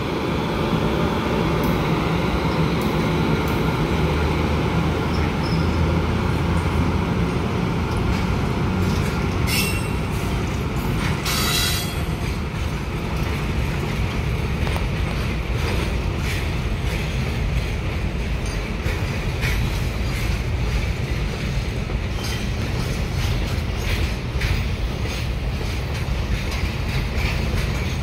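Indian Railways WAG-9 electric locomotive hauling a long container freight train past, followed by the steady rumble and clatter of the wagons' wheels on the rails. Two brief sharp, high noises come about ten and twelve seconds in, and in the second half a run of quick clicks comes from the wheels going over the rail joints.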